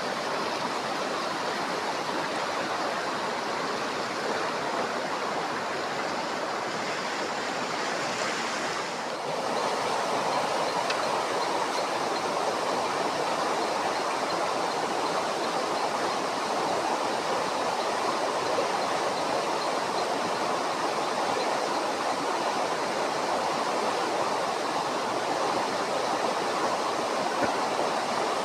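Steady rushing of stream or river water, growing slightly louder about nine seconds in.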